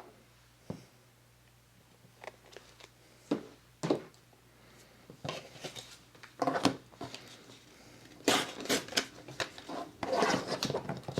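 Paper and craft supplies being handled: scattered rustles, taps and clicks, sparse at first and busier in the second half.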